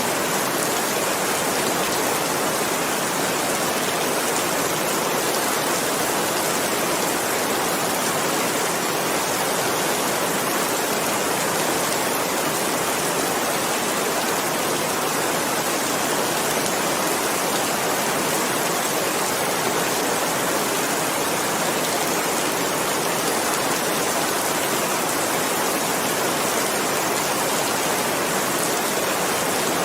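Steady rain, a dense, even hiss of countless drops with no single drop standing out.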